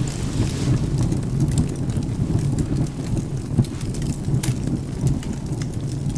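Wood fire crackling with scattered sharp pops, one stronger pop about halfway through, over a steady low rumble of rain and thunder.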